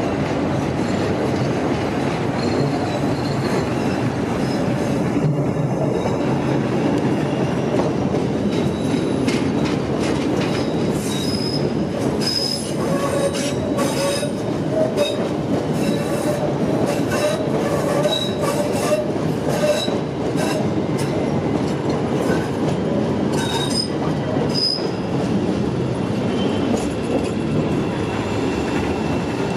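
A CTA 'L' rapid transit train running on the track, its wheels squealing with a wavering tone and clicking over rail joints, the squeal and clicks strongest through the middle of the passage.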